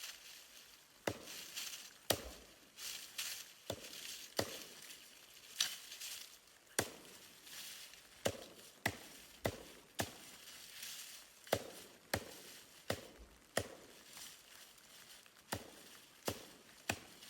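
Repeated chopping strikes, roughly one a second at an uneven pace, over a steady high hiss.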